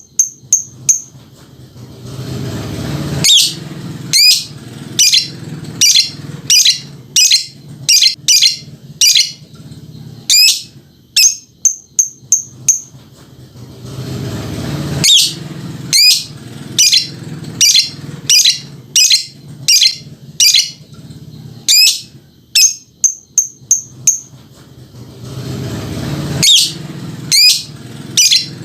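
Lovebird 'ngekek' chatter: a long run of loud, shrill chirps, one or two a second. Quick runs of short notes come twice, and a low noise swells beneath the chirps three times.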